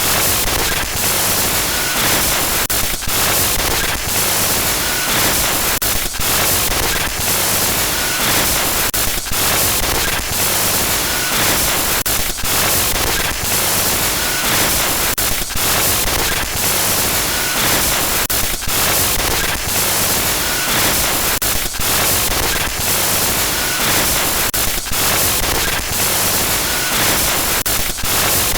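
Loud, harsh digital static glitch noise, a dense hiss and crackle across the whole range, with a brief dropout about every three seconds as the effect loops.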